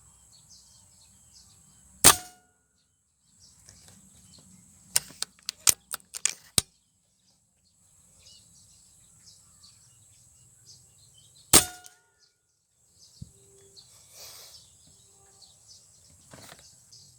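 Two sharp air-rifle shots, one about two seconds in and one past the middle, each with a short metallic ring after it; between them a quick run of sharp clicks. Insects buzz steadily and high in the background.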